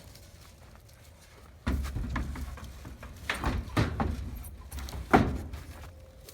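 A shed door being shut and secured: a low rumble sets in about a second and a half in, then several sharp knocks and rattles, the loudest near the end.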